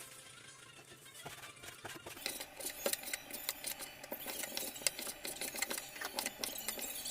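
Rapid, irregular clicking and tapping of utensils during food preparation, growing busier about two seconds in.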